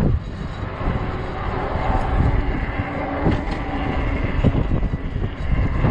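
Gusty wind buffeting the microphone during a fat-tire e-bike ride: a steady low rumble.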